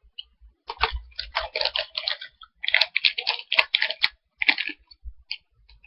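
Plastic snack package crinkling as it is handled, in irregular clusters of short crackles.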